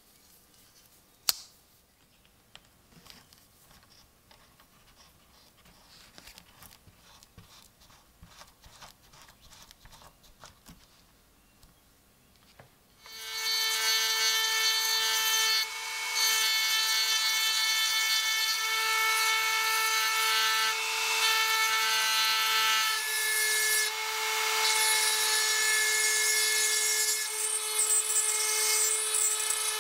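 Faint clicks and scrapes, with one sharp click about a second in. About halfway through, a small high-speed power tool starts suddenly and runs steadily with a high whine, working the rusty metal of an old pocket knife, its level dipping briefly now and then.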